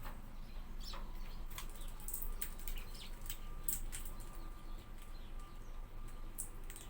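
Hawfinches: short, sharp ticking calls and chirps scattered irregularly, several a second at times, over a steady background hiss.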